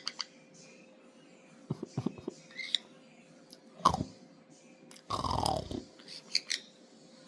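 A pet parrot making small clicks and short high chirps, with a few short, low calls that drop steeply in pitch.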